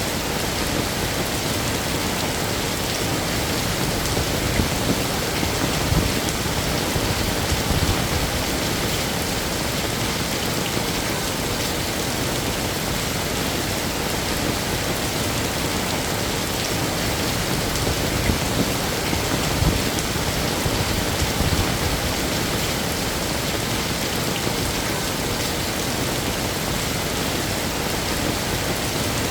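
Heavy rain pouring and splattering on surfaces in a steady, dense hiss, with a few low swells partway through.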